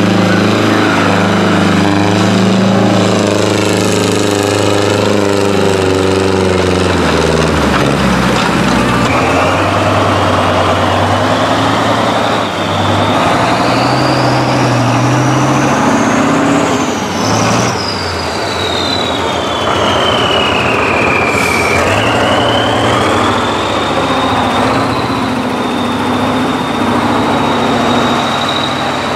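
Tractor engine running hard under load. A high-pitched whine climbs steadily through the middle, falls away sharply, then holds at a steady pitch.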